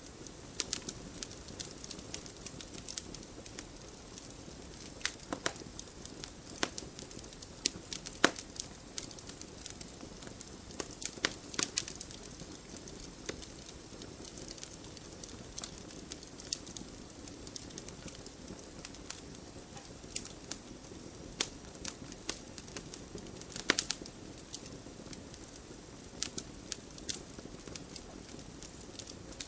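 Wood fire burning in a fireplace: a steady low rush of flames with irregular sharp crackles and pops, a few of them louder snaps.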